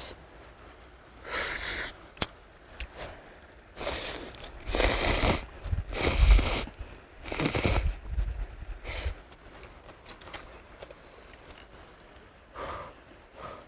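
Ramen noodles being slurped: about five short, airy slurps spread over several seconds, with a sharp click about two seconds in.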